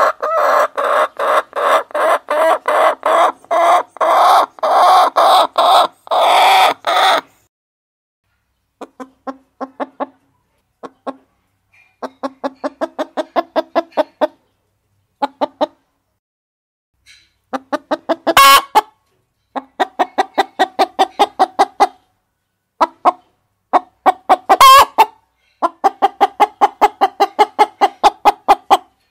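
Hens clucking in runs of short, pitched clucks, about three to four a second, stopping and starting again after pauses. Two louder, harsher calls stand out, one in the middle and one near the end.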